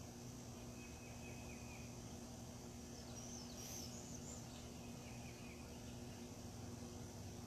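Faint outdoor birdsong: a few thin whistled calls and a short high chirping phrase in the middle, over a steady low hum.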